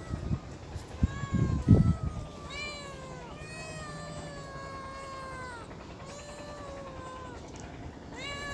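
Domestic cats meowing: a run of long, drawn-out meows, some overlapping, with a few low thumps about a second in.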